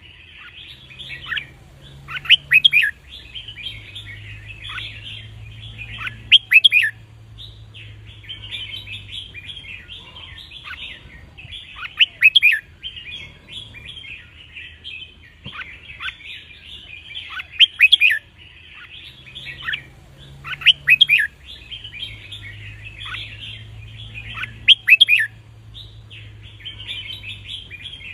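Red-whiskered bulbul song: continuous chattering and warbling, broken about every four to six seconds by a louder, sharper whistled phrase, six in all.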